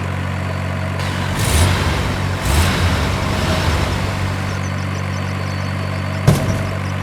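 Steady engine idling sound with a low hum, rising in two louder surges about one and a half and two and a half seconds in, with a single sharp knock near the end.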